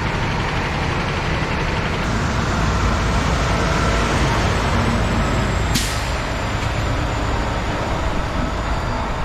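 Heavy diesel truck running steadily, with engine rumble and road noise, and one sharp click about six seconds in.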